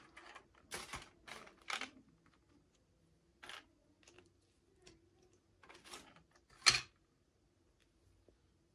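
Hands handling small plastic toy packaging and pieces: a series of short crinkles, scrapes and clicks, about seven in all and irregularly spaced, the loudest near the end.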